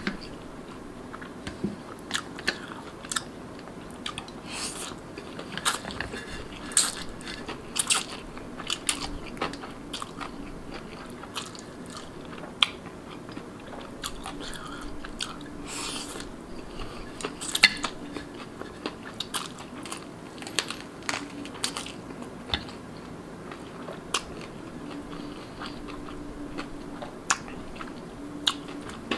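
Close-miked eating sounds of a person chewing and slurping instant noodles and marinated rabbit meat: wet chewing with sharp lip smacks and clicks at irregular intervals.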